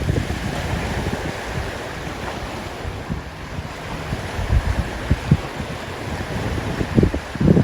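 Wind buffeting the microphone: a steady rush with irregular low gusty thumps, strongest near the end.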